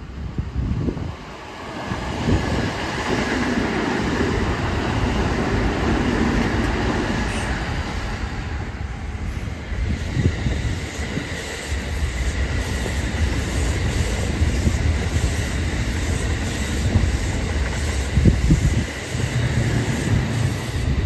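Kintetsu electric train running past on the tracks: a steady rumble, with wheels clacking over rail joints through the second half.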